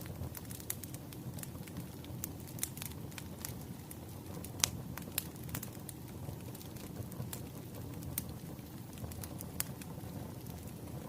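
Firewood burning: irregular sharp crackles and pops over a steady low rumble of the fire, with one louder pop about four and a half seconds in.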